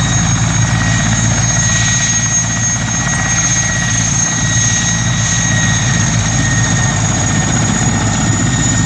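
Mil Mi-8 helicopter running close by: a steady, pulsing beat from the rotors with a continuous high whine from its turbine engines over it.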